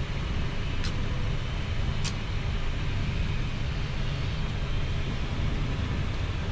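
Steady flight-deck rumble of a Boeing 737 MAX 8 on the ground: its CFM LEAP-1B engines at idle, with air-conditioning hiss, heavy in the low end. Two faint clicks come about one and two seconds in.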